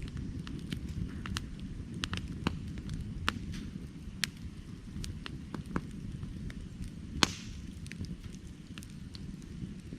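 Firewood burning: a steady low rush of flames under irregular sharp crackles and pops, with one louder pop a little past seven seconds in.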